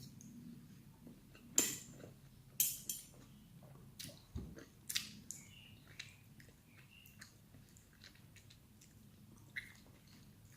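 Eating sounds: cutlery clicking against a plate and chewing, with several sharp clicks in the first half and softer ones after.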